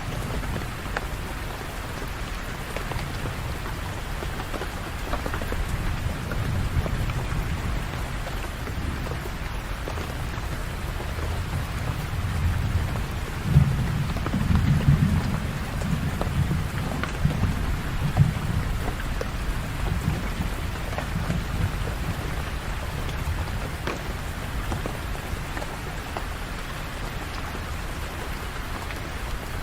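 Steady rain falling, an even hiss, with a low rumble of thunder swelling about halfway through before fading back under the rain.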